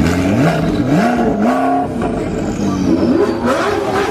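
Car engine and exhaust accelerating hard, its pitch climbing in steps in the first two seconds as it revs up, then wavering up and down near the end.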